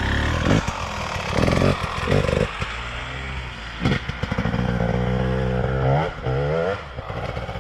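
Dirt bike engine revving hard in bursts as the throttle is opened and chopped. The pitch climbs through the middle and drops off sharply about six seconds in.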